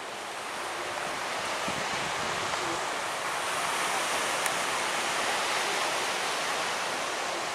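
Surf washing onto a sandy beach, a steady rushing hiss that swells through the middle and eases off near the end.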